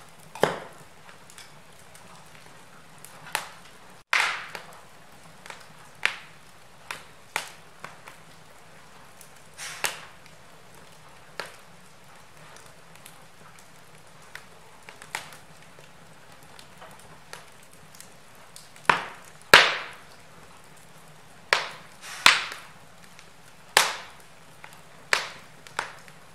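Wood fire crackling in a fireplace: irregular sharp pops and snaps, one to a few a second, over a faint steady hiss, with a cluster of louder pops about three-quarters of the way through.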